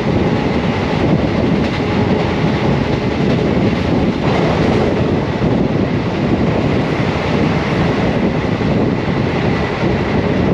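Garib Rath express coach running along the track, heard from its open doorway: a steady, loud rumble of wheels on rails, with wind buffeting the microphone.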